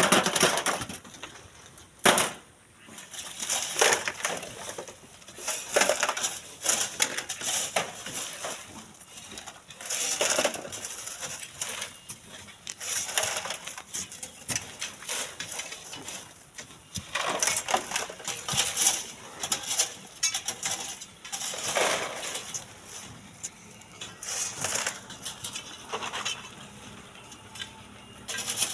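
Hand shovels or hoes digging into sand and gravel, a rough scrape and crunch every one to two seconds. There is a sharp crack at the start and another about two seconds in.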